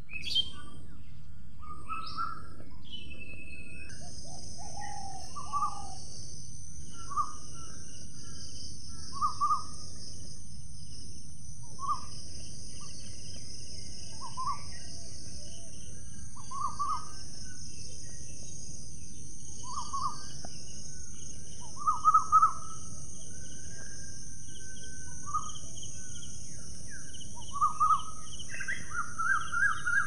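Bird calls: short notes repeated every one to two seconds, louder and closer together near the end, over a steady high-pitched hiss and low background rumble.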